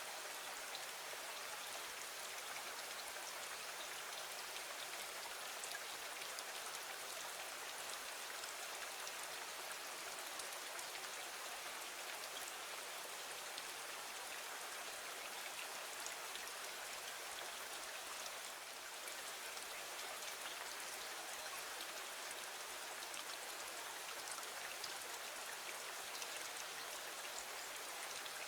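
Steady rain: an even hiss of many falling drops, with fine drop ticks scattered through it and no change in strength.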